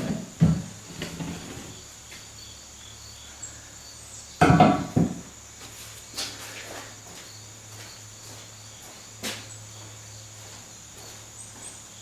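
A few knocks and clatters of parts being handled, the loudest about four and a half seconds in and a sharp click later, over a steady low hum and a faint high whine.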